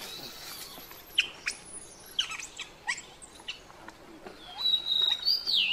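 Birds chirping: short, high calls that slide downward, scattered throughout, and a longer high whistled call near the end that falls in pitch.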